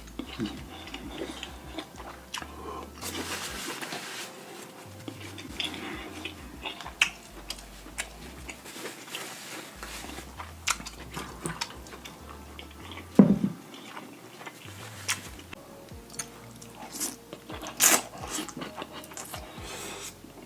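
Close-up eating sounds of deshelled seafood boil: biting and chewing, with many small sharp clicks and a few louder ones about 13 and 18 seconds in.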